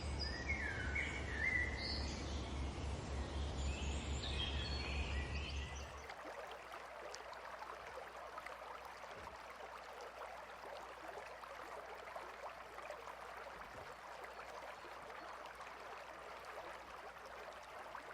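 Outdoor nature ambience: several short bird chirps over a low hum, then an abrupt change about six seconds in to a faint, steady hiss of insects or running water.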